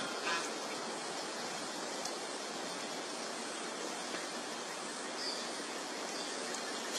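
Steady, even background hiss with no distinct events, with a few faint, short high chirps near the end.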